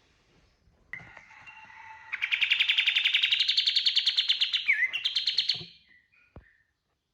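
A kapas tembak bulbul singing its rapid-fire 'tembakan' burst: a few soft notes, then about two seconds in a fast, loud trill of about ten notes a second, rising slightly in pitch. It breaks briefly near the end and then stops, leaving a couple of soft notes.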